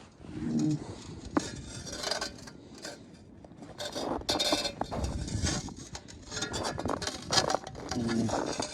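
Footsteps crunching and scraping through ice-crusted snow, with a brittle clinking of broken ice, in irregular bursts.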